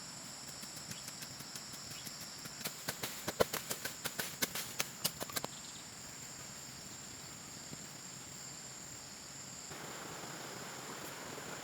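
Steady high-pitched chirring of insects. A quick run of sharp knocks or taps, about four or five a second, sounds over it from about one to five and a half seconds in.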